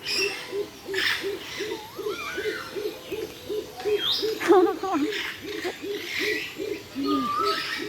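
A bird giving a long, even series of low hoots, about three a second, while other birds chirp and whistle over it.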